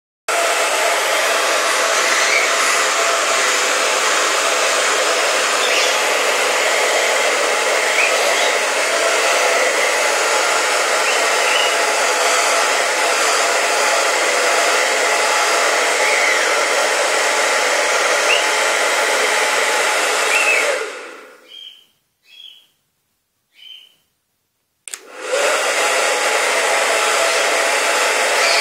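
Hair dryer running steadily, with a male cockatiel's short rising whistles faintly over it. About 20 seconds in the dryer winds down, the cockatiel gives three short whistles in the quiet, and the dryer starts up again a few seconds later.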